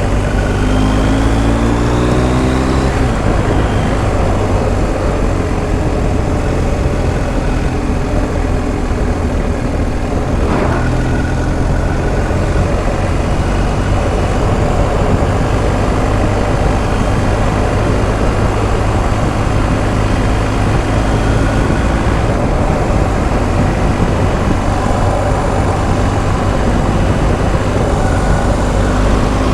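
BMW R1250 GS Adventure's boxer-twin engine pulling away with its pitch rising for the first few seconds, then running steadily at speed under a heavy rush of wind noise.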